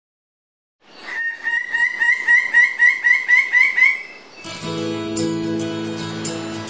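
A bird of paradise calling a fast series of loud, repeated notes, about three a second, creeping up in pitch, for about three seconds. Music with sustained notes comes in about four and a half seconds in.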